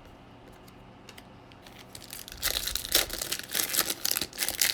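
Trading card pack wrapper being torn open and crinkled in the hands. There are light rustles at first, then a burst of loud, crackly crinkling from about halfway through.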